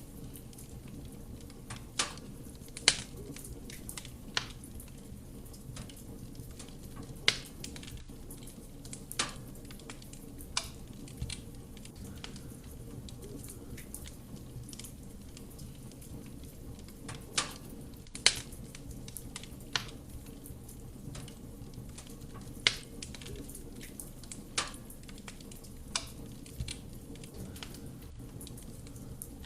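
Wood fire burning in a fireplace: irregular sharp crackles and pops of the burning wood over a steady low rush of the flames.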